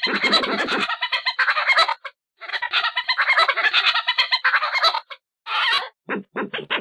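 Badger calling: two long runs of rapid pulsed calls, each a couple of seconds long with a short break between, followed by a few short separate calls near the end.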